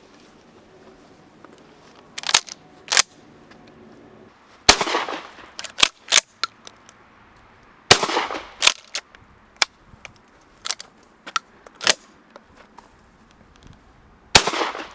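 Shotgun fired three times, about five, eight and fourteen seconds in, each blast ringing on for a moment, with shorter sharp cracks and clicks in between.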